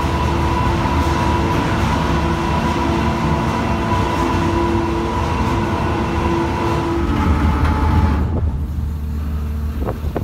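Steady vehicle running noise: a low rumble with a constant whine, which changes about seven seconds in and cuts off sharply about a second later.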